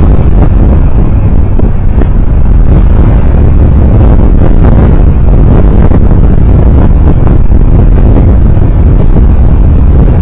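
A road vehicle on the move, recorded on board: a loud, steady low rumble with noise above it and no breaks.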